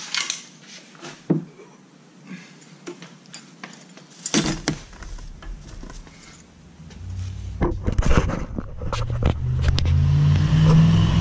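Clicks and metal scrapes of hand tools on a motorcycle's exhaust, then another motor vehicle's engine approaching, growing louder from about the middle and running steadily near the end.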